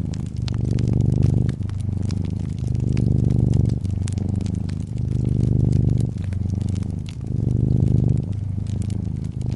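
Domestic cat purring close up, the purr swelling and easing with each breath about every two seconds. Wood fire crackling, with scattered sharp pops throughout.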